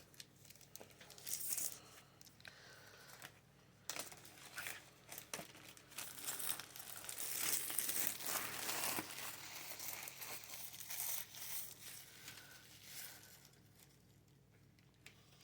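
Plastic wrapping being torn and crinkled off a wall calendar, in irregular bursts of crackling that are busiest in the middle and die down near the end.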